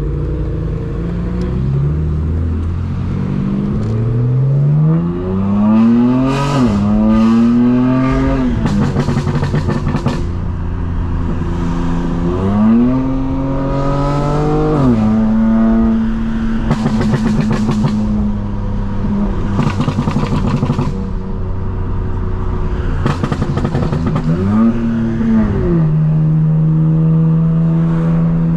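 Straight-piped, tuned BMW M4 Competition twin-turbo inline-six exhaust pulling hard through the gears: engine pitch climbs, drops at a gearshift and climbs again, then settles to steady cruising. Two shorter pulls follow, one in the middle and one near the end, each falling back to a steady drone.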